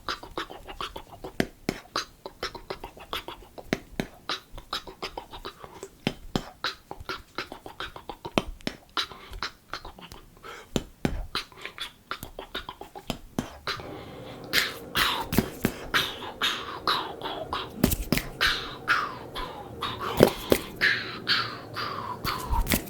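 Fast ASMR trigger sounds right at a microphone: a quick run of sharp clicks and taps, about three to four a second. About two-thirds of the way through, short sounds join in that slide down in pitch.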